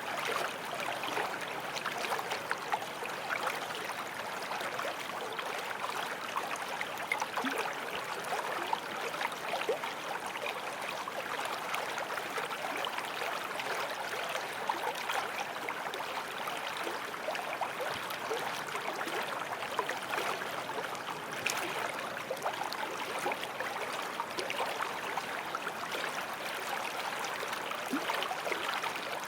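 Forest stream running over stones, a steady rush of water with small gurgles and splashes throughout.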